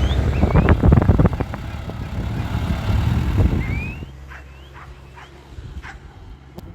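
Tractor diesel engine running steadily under load, fading away about four seconds in. In the quieter stretch that follows come several short animal calls.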